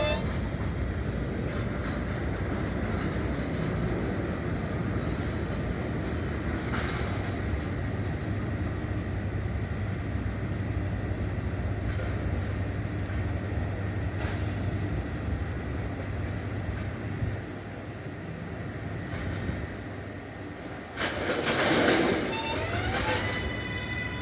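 New York City subway L train running through an elevated station, a steady rumble of wheels on rail. Near the start and again near the end the train's electric propulsion whines in stepped, musical tones, the loudest moment coming about 22 seconds in.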